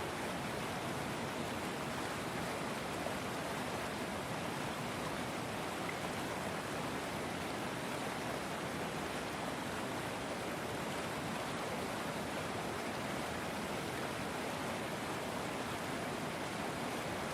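River water flowing, a steady, even rush of water.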